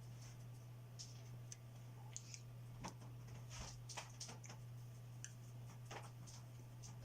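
Paintbrush dabbing thick paint onto paper in dots: faint, irregular taps about one or two a second, over a steady low hum.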